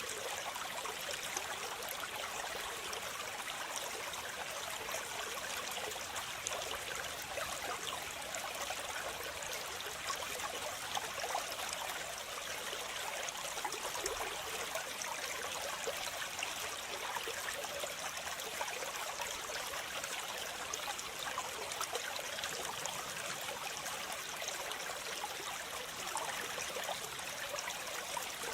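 Waterfall: water falling and splashing in a steady, unbroken rush, mostly hiss with little bass.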